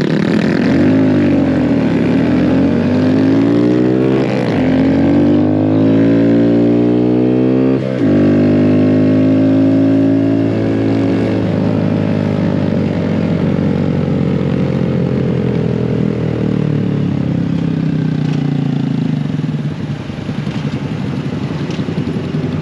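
Small motorcycle engine running while riding: its pitch climbs with revving, drops sharply at a gear change about eight seconds in, then slowly falls as it slows, a little quieter near the end.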